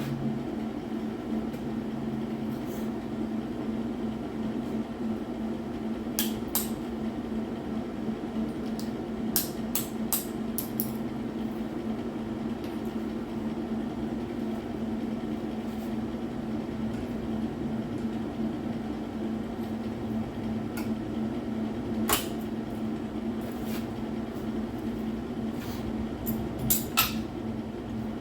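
Steady low hum with scattered sharp clicks and knocks of tools and sheet metal being handled, a cluster of several near the end.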